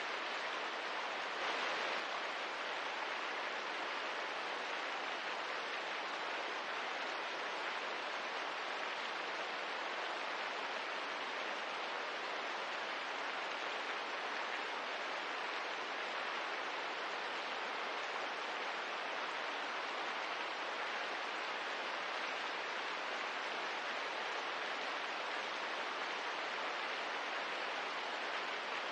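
Steady, even hiss of rain, with no single drops or crackles standing out and a slight swell about two seconds in.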